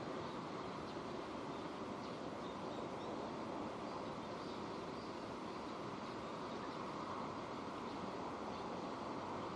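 Steady rain falling, an even hiss with faint scattered drop sounds in it.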